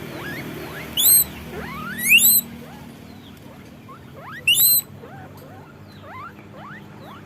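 Guinea pigs wheeking: many short squeals that rise in pitch, overlapping, with three loud ones about one, two and four and a half seconds in and fainter ones in between.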